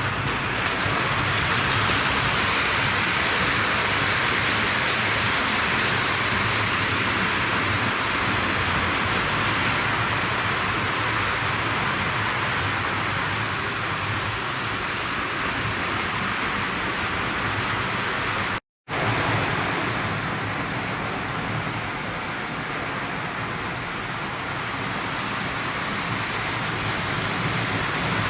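Postwar Lionel O gauge steam locomotive running around the track: a steady whir of its motor and gears with the wheels rolling on the rails. The sound drops out for an instant about two-thirds of the way through.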